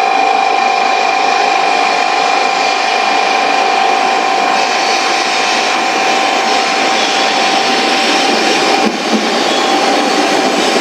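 Sanyo Shinkansen N700 series 8000 train pulling into the platform, its running noise building up, over a steady high tone that stops about nine seconds in.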